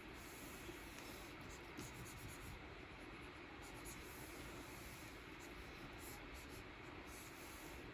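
Stylus nib of a Wacom Cintiq 24 Pro pen display scratching across the screen's surface in short strokes. The strokes are faint over a steady background hiss.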